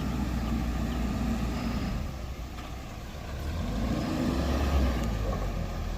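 Mitsubishi BD2G bulldozer's diesel engine running under load, its pitch rising and falling twice as it works.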